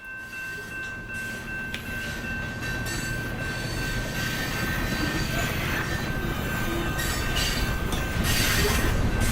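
Train rolling along with steady high-pitched wheel squeal over a low rumble, growing steadily louder.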